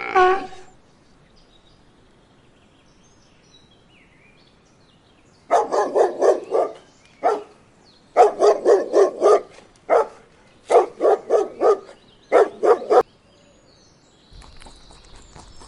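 Dog barking in quick runs of short barks, several groups of them, starting about a third of the way in and stopping shortly before the end.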